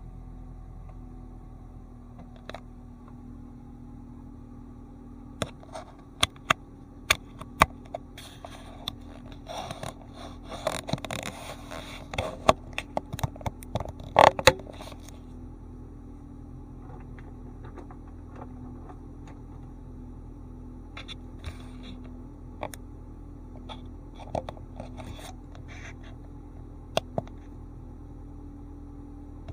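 Ford Fiesta engine running at a steady low idle, with a cluster of sharp clicks and scraping about a third of the way in and a few more clicks later.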